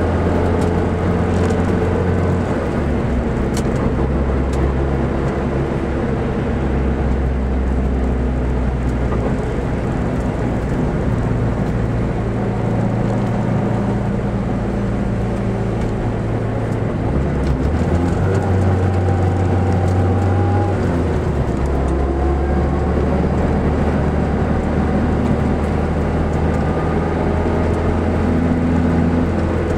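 Car engine and road noise heard from inside the cabin while the car is driven at speed around a race track. The engine note steps up and down several times as the driver changes pace through the corners and straights.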